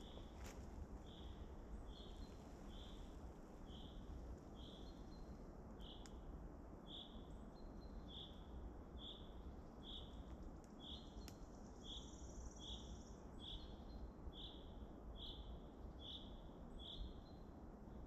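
A small bird repeating a short high chirp about once a second, over faint steady forest background noise. A brief buzzy trill comes in about twelve seconds in.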